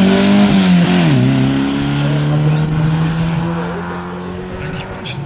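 Rally car engine passing close at high revs, its pitch dropping sharply about a second in, then a steadier engine note that fades as the car moves away.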